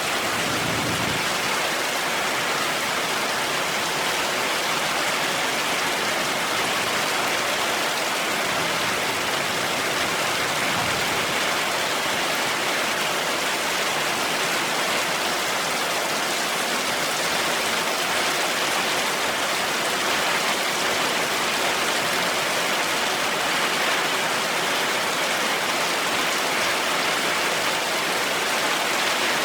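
Heavy rain falling steadily, an even dense hiss with no pauses.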